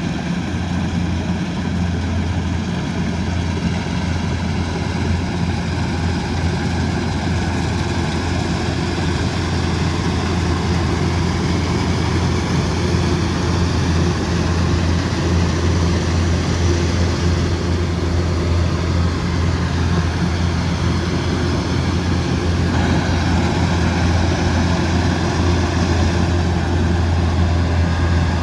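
Combine harvester's diesel engine running steadily under working load, a continuous low drone with machinery noise on top.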